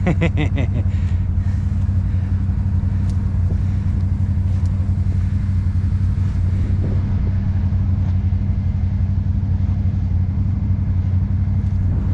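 ATV engine running steadily at a constant, low speed, with no revving.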